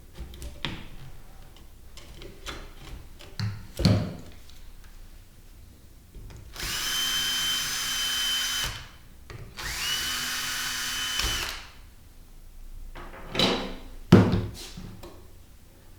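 A handheld power drill runs twice at a steady speed, each time for about two seconds, with a short pause between. Before and after come a few knocks and clunks of parts being handled.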